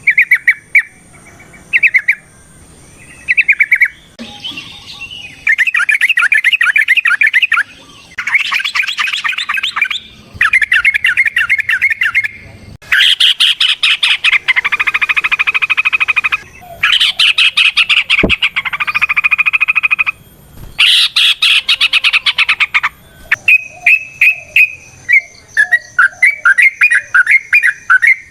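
Yellow-vented bulbul singing its rapid, bubbling 'ropel' song. It starts with short phrases, then gives four long runs of several seconds each, then breaks into short quick bursts near the end.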